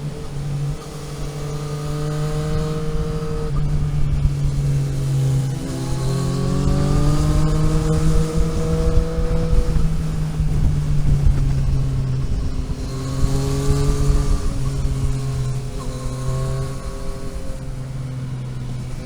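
Vehicle engine under way, its pitch rising and falling as it accelerates and eases off, over a heavy low rumble. The recording's audio is damaged.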